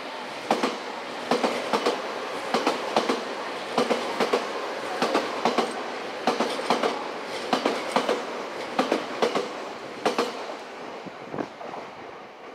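Electric commuter train's wheels clattering over rail joints: sharp clicks in groups of two or three, coming about every second and a quarter over a steady rumble. They thin out and fade after about ten seconds.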